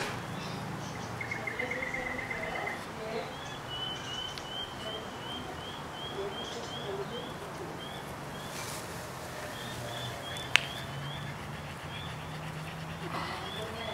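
Garden birds calling: a short high chirp repeated about twice a second, with a brief rapid trill about a second in. One sharp click sounds about ten seconds in.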